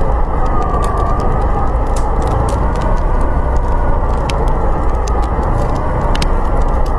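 Snowstorm wind howling, a loud, steady rush with a slowly wavering whistle, while a wood fire crackles over it in quick, irregular pops.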